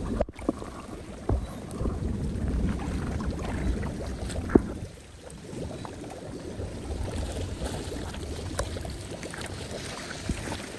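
Floodwater running into a storm drain with a low, steady rushing, wind buffeting the microphone, and a few sharp knocks, the loudest about four and a half seconds in.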